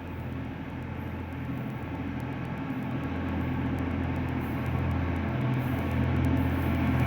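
Diesel locomotive engine running with a steady low drone, growing steadily louder as the train approaches.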